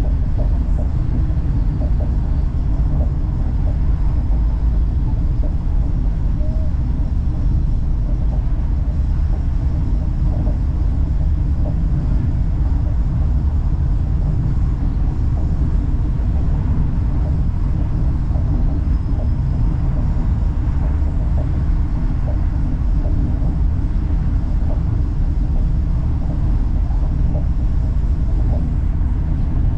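Laos-China Railway passenger train running at speed, heard from inside the carriage: a steady low rumble with faint scattered ticks.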